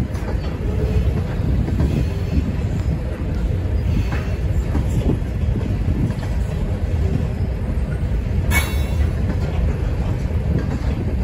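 Freight train of covered hopper cars rolling past: a steady low rumble of steel wheels on rail with scattered clanks, and a brief high squeal about eight and a half seconds in.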